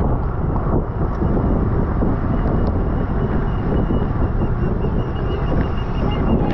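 Wind buffeting the microphone of a camera on a road bike ridden at race speed, a steady dense rush, with a faint thin high tone running through it from about two seconds in.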